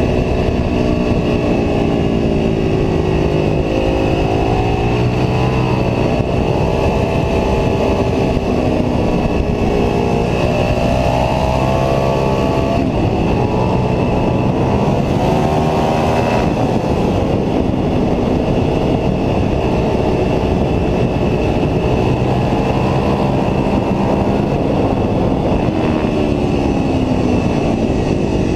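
Ducati 749S's L-twin engine at speed on track, its pitch climbing under acceleration and dropping sharply at shifts and braking several times, over a steady rush of wind noise on the onboard camera.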